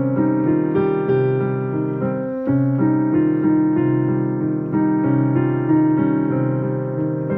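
Solo piano playing a slow melody over sustained chords and a low bass line, the chords changing every half second or so.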